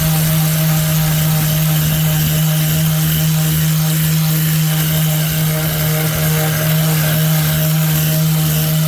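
Power sander running steadily, a constant motor hum over an even gritty hiss, as it sands the fiberglass and body filler of a snowmobile cutter's tub.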